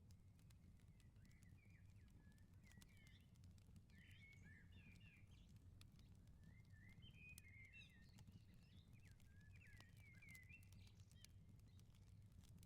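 Faint outdoor ambience: birds twittering in short warbled phrases, over scattered sharp crackles and pops of a wood fire and a steady low rumble.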